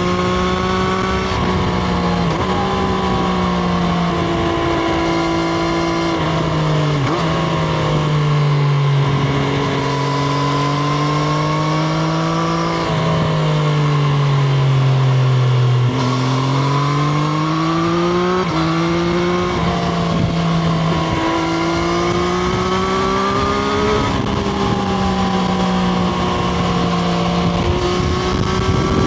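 Triumph Street Triple RS's 765 cc inline three-cylinder engine heard onboard while riding, its note sliding down and up with the throttle and jumping suddenly in pitch a few times at gear changes.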